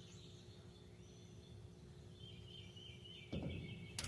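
A hammer striking a steel punch once near the end, a single sharp metallic tap marking a differential bearing cap, with a duller knock just before it as the punch is set. Birds chirp faintly in the background.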